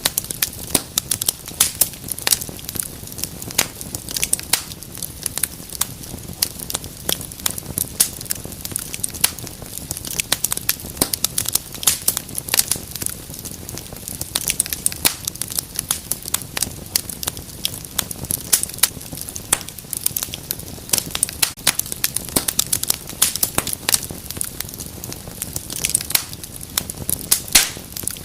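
Wood fire burning in a fireplace, crackling and popping steadily with many irregular sharp snaps over a low, even rush of flame.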